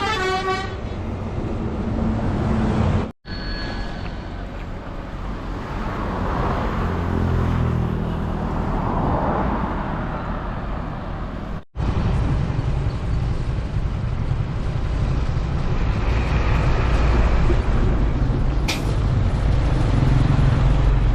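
Hino FG1J ten-wheeler truck's diesel engine running with road noise as it drives, a steady heavy low rumble that cuts out abruptly twice; a brief sharp high sound near the end.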